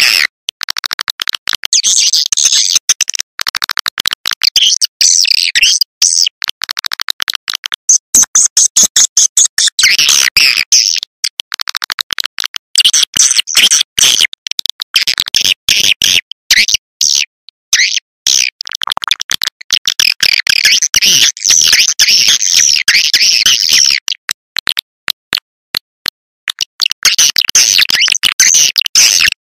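Swiftlet lure call recording: dense, high-pitched twittering and rapid clicking chirps of swiftlets, in quick clusters broken by brief gaps, the kind of sound played to draw swiftlets into a nesting house.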